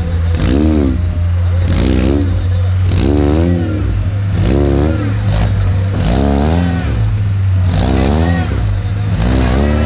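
Off-road vehicle engine revved up and down over and over, about once a second, over a steady low engine rumble.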